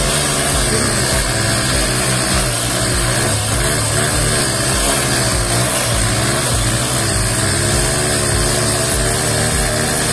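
Two single-cylinder commuter motorcycle engines, a Bajaj Platina and a TVS Star City, running hard under load as the bikes pull against each other in a tug of war. The sound stays steady and loud, its pitch wavering slightly up and down.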